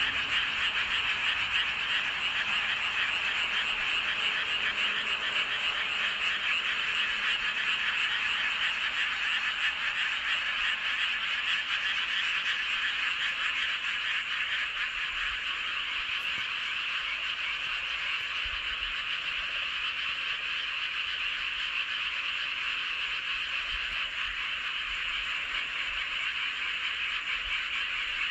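A dense chorus of many paddy frogs calling at once, a continuous mass of rapid overlapping croaks. It stays steady throughout, easing off slightly in the second half.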